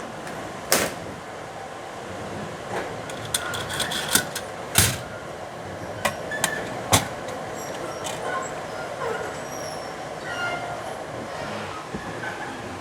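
Hardware rattling as a box of nuts and bolts is rummaged through: scattered metallic clinks and short pings, with a few sharper clacks, the loudest about five seconds in.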